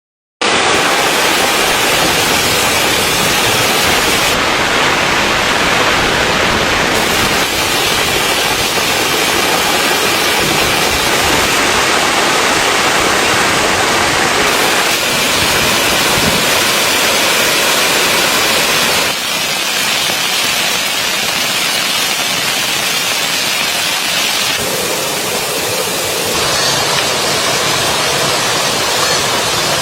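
Steady rain on a tent, heard from inside it, a dense even hiss whose tone changes abruptly a few times.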